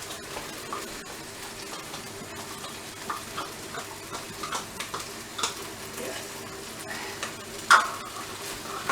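Chicken noodle stir fry sizzling in the pan, just after a little water has gone in, with a utensil scraping and knocking against the pan now and then. The loudest knock comes near the end.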